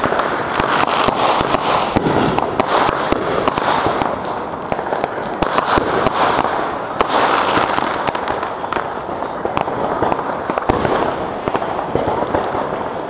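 Consumer fireworks going off in a dense, continuous run of sharp pops and crackles, many to the second, with no pause.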